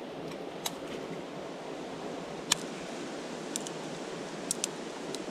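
Steady rushing of a river flowing over rocks, with a few short sharp clicks and snaps scattered through.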